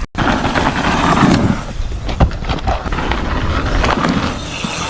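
Mini bike's small engine running as the bike is ridden, with a sharp knock about two seconds in.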